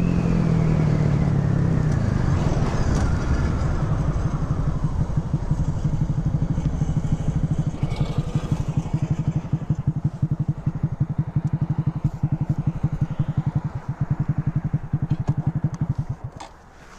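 Motorcycle engine dropping in pitch as the bike slows, then idling with an even, pulsing beat until it is switched off about a second before the end.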